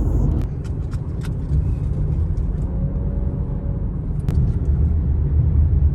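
Steady low rumble of a car's engine and road noise heard from inside the cabin while driving, with a few faint clicks and one sharper tap about four seconds in.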